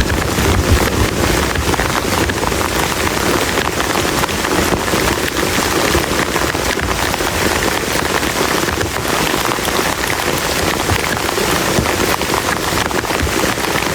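Heavy rain pouring steadily onto a camp shelter, with a dense patter of drops striking close by. A low thunder rumble fades out in the first second.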